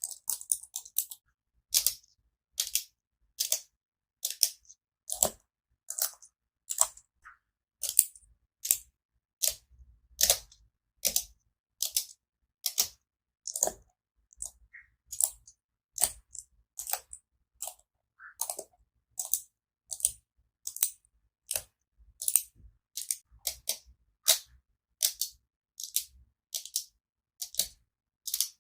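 Keyboard keys being pressed one at a time in an unhurried, uneven rhythm: separate crisp clicks, about one to two a second, with short silences between them.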